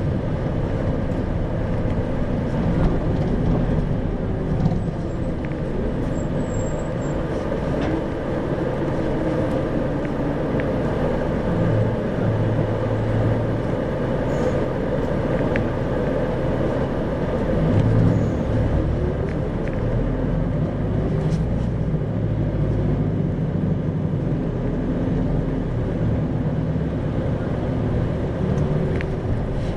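Isuzu 2RG-LV290N4 city bus running, its diesel engine rising and falling in pitch as the bus speeds up and slows, over steady road rumble.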